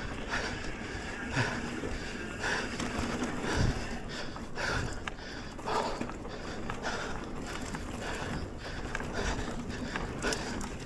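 Mountain bike riding a dirt singletrack: steady tyre and trail noise with frequent small rattles and knocks from the bike. The rider breathes hard, about one breath a second.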